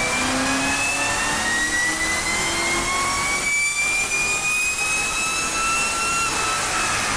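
C7 Corvette Z06's supercharged LT4 V8 under acceleration, its supercharger fitted with an aftermarket billet lid: a loud supercharger whine that rises slowly in pitch, then falls away near the end.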